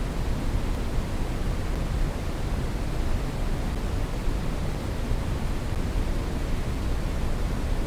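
Steady brown noise: an even, unchanging hiss weighted heavily toward the bass, with the highs rolled off.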